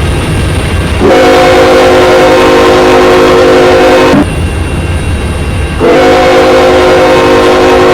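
Locomotive air horn sounding long blasts: one about a second in that lasts some three seconds, and another starting near the end, with a low rumble of the passing train between them.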